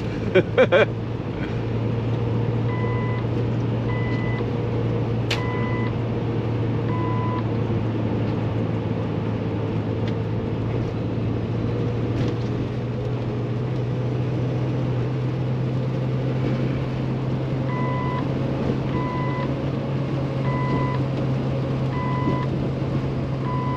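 Inside the cab of a Kenworth T680 under way: the Paccar MX13 diesel's steady drone with road noise. A short electronic chime beeps about once every 1.3 seconds for a few seconds near the start, and again through the last six seconds.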